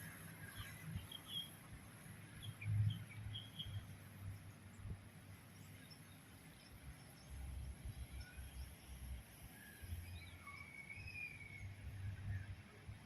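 Faint outdoor ambience: an uneven low rumble of wind on the microphone, with scattered short bird chirps and a steady high insect-like hiss.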